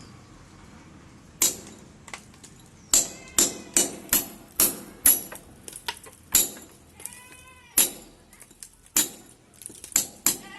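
About a dozen sharp, ringing metallic knocks at an irregular pace, like tool blows during plumbing work. A short pitched call sounds once, about seven seconds in.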